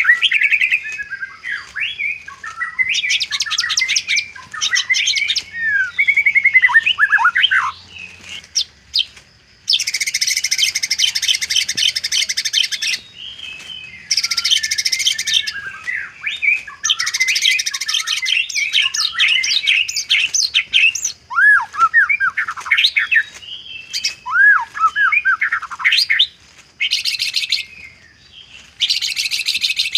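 White-rumped shama singing a long, varied song loaded with imitated calls (isian): clear whistled slurs alternate with spells of fast, harsh rattling.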